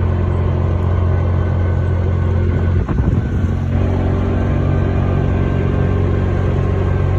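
An engine running steadily at an even speed, a loud low hum, with a brief thump or jolt about three seconds in.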